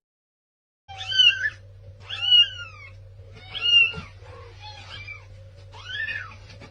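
A cat meowing: five meows about a second apart, starting about a second in, the fourth one faint.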